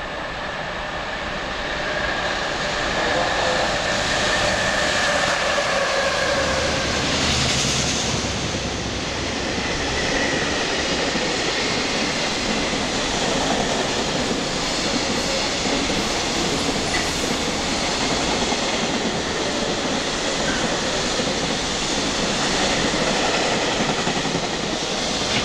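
JR Freight EF66-101, an EF66 100-series electric locomotive, hauling a container freight train through the station at speed. The rumble and clickety-clack of the wheels build over the first few seconds as it approaches, then hold steady while the long string of container wagons rolls past.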